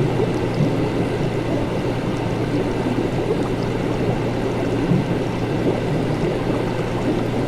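Laboratory ambience: liquid bubbling and gurgling steadily over a constant low hum.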